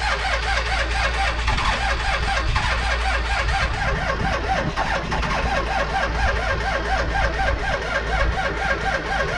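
A car engine being cranked over by its starter in freezing cold, with an even wavering beat about five times a second that never speeds up into running: the engine is failing to start.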